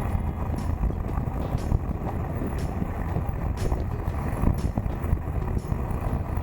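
Wind rushing over the helmet-mounted camera's microphone on a Suzuki GSX1400 motorcycle at road speed, a steady low rumble with the bike's road and engine noise mixed in.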